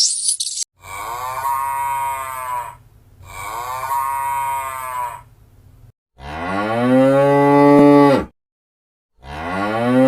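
A cow mooing: four long moos with gaps between them, the last two louder and lower. Before the first moo there is high, insect-like chirping that stops within the first second.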